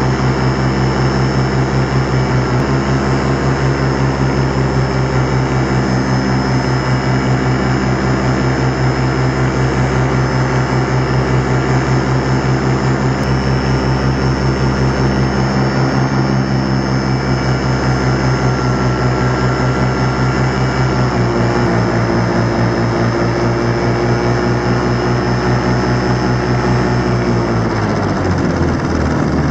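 Miniplane Top 80 single-cylinder two-stroke paramotor engine and propeller running steadily under power in flight, its pitch stepping down slightly about two-thirds of the way through and dropping further near the end as the throttle eases off.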